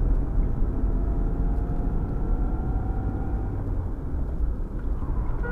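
A car driving, with a steady low engine and road rumble and a faint whine that rises slightly in pitch.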